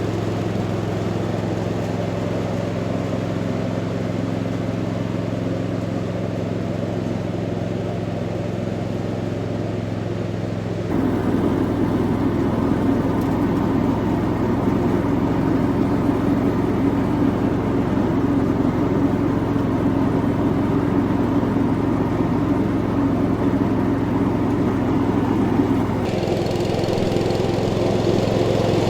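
Cub Cadet 1000 garden tractor engine running steadily while mowing. It gets suddenly louder and fuller about 11 seconds in, and changes again near the end.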